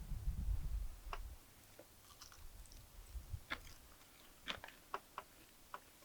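A person chewing and biting into crispy fried food, with scattered short crunches. A low rumble comes in the first second.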